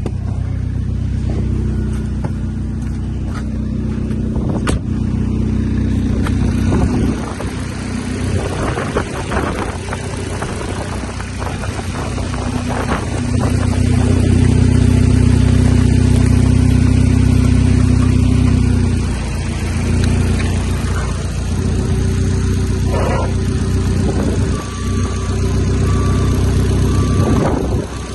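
Opel Astra H Z16XER 1.6-litre four-cylinder petrol engine running under test, mostly at a steady idle. In the middle it is revved up and held higher for about five seconds, then drops back to idle.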